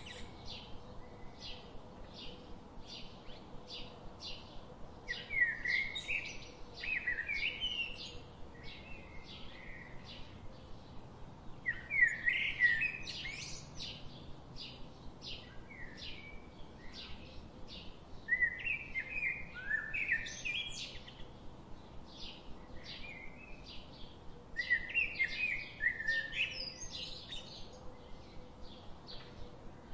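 Birds singing: a steady series of short high chirps, about two a second, with a louder warbled song phrase breaking in every five or six seconds.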